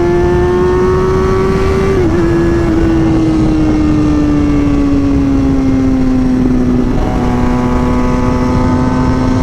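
Inline-four sport motorcycle engine running at cruising speed under a steady rush of wind noise. Its pitch climbs slightly, dips briefly about two seconds in, eases down gradually and then holds steady.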